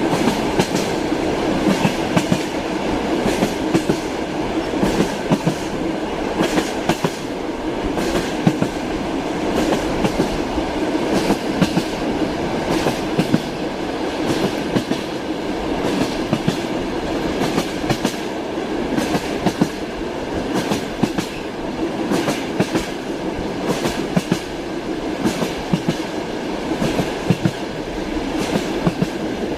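Railway carriage wheels running over rail joints: a steady rumble with a continual irregular clatter of clicks and knocks.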